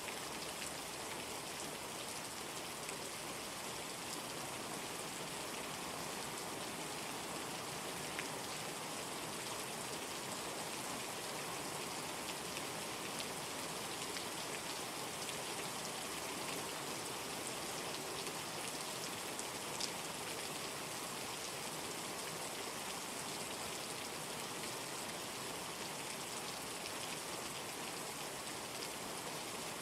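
Steady rainstorm rain, an even unbroken hiss, with a couple of sharper ticks standing out from it.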